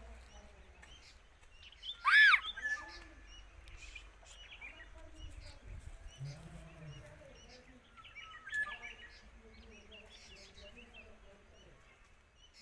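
Birds calling and chirping, with scattered short chirps throughout. The loudest is a single arched call that rises and falls about two seconds in, and another strong call comes near the middle.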